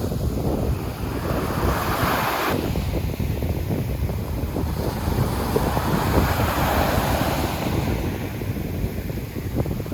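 Sea waves breaking and washing up the beach, in hissing surges: one cuts off sharply a couple of seconds in, and another swells past the middle. Wind buffets the microphone with a constant low rumble.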